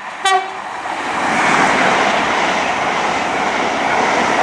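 InterCity 125 High Speed Train passing through the station without stopping: a steady rush of wheel and rail noise that builds over the first second or so and then holds.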